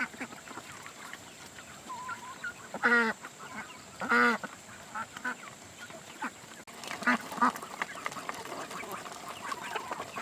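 Farm ducks quacking: two loud calls about three and four seconds in, softer calls around seven seconds, and fainter quacking between.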